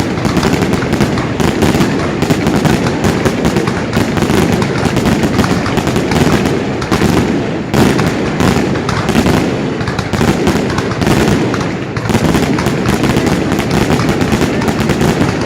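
Fireworks display going off densely and without pause: many bangs and crackles overlapping one another.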